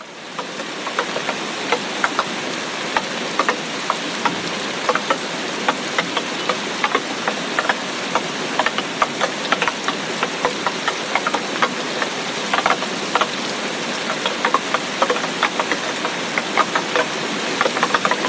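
Heavy tropical rainstorm: a steady rush of rain with many irregular, sharper drops and splats landing close by. It fades in at the very start.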